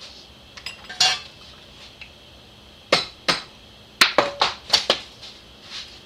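Sharp metal-on-metal taps and clinks as a carburetor part is tapped loose with a small metal tool: a single tap, a pair near the middle, then a quick run of about five.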